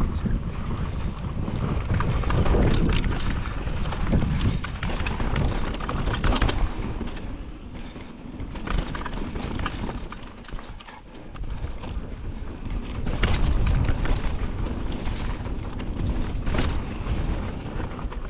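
Mountain bike descending a dirt trail: heavy wind buffeting on the microphone and tyre rumble, with frequent sharp clatters and knocks as the bike rattles over rocks and roots.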